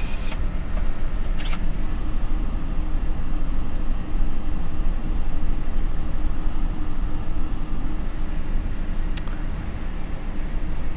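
Steady low rumble inside a Boeing 747-400 cockpit as the jet rolls out slowly on the runway after landing, with a steady hum running through it. A few short clicks come at the start, about a second and a half in, and near the end.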